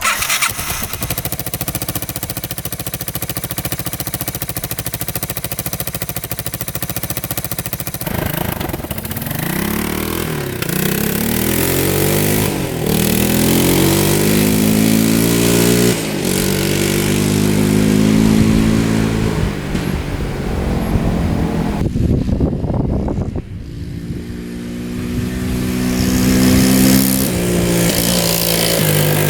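A 1985 Yamaha 225DX three-wheeler's 225 cc four-stroke single-cylinder engine, freshly rebuilt, on a break-in test ride. It runs at a steady pitch for about eight seconds, then revs up and drops back several times as it pulls through the gears. It eases off briefly about three-quarters of the way in, then pulls up again.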